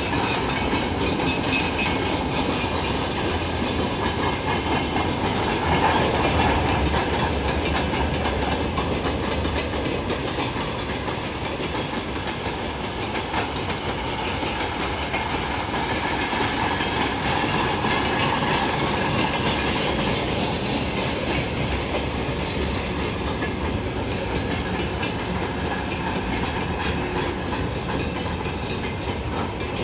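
A train running past, its wheels clattering over the rail joints in a steady rumble, with small swells in loudness about six seconds in and again near the middle.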